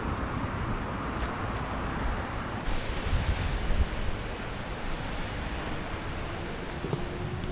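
Steady wind noise on the microphone over a low rumble.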